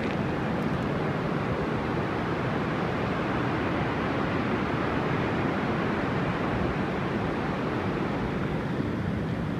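Pacific Ocean surf heard as a steady, even rushing noise.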